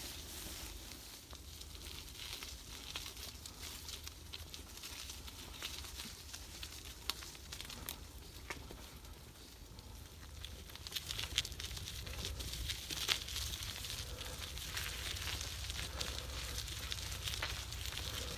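Gravel bike tyres rolling over a forest track, with a steady crunch and many small crackles from grit and twigs under the wheels, over a low rumble of wind on the microphone.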